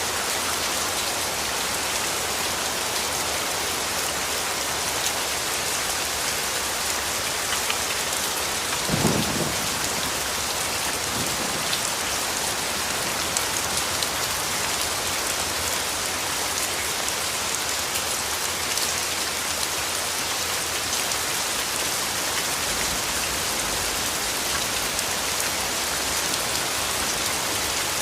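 Steady rain falling, with one short low rumble of thunder about a third of the way in and a fainter one just after.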